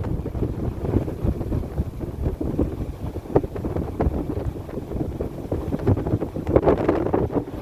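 Strong wind buffeting the microphone in gusts, with a louder gust near the end.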